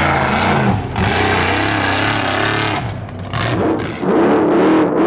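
Off-road trophy truck engine at race pace, its pitch rising and falling, with brief dips in level a few times. Under it runs a steady rush of tyre, dirt and wind noise.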